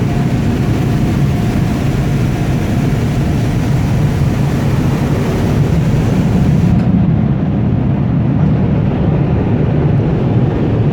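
Car wash blower dryers blowing air over a cargo van, heard from inside the cab as a loud, steady rushing noise. The high hiss drops away suddenly about seven seconds in.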